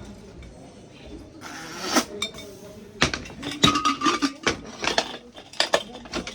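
Small hard objects clinking and tapping together in quick, irregular strokes. There is a short scraping hiss about one and a half seconds in, and a busier run of clinks from about three seconds on.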